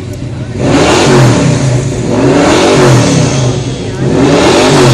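Plymouth 'Cuda's 440 big-block V8 being revved hard three times, the engine note climbing and falling back between each rev, loud.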